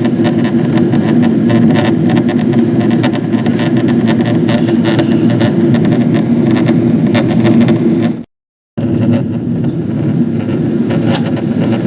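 Boeing 777-200ER cabin noise on approach: a steady engine and airflow drone heard from inside the cabin, with many faint light clicks. The sound cuts out completely for about half a second some eight seconds in.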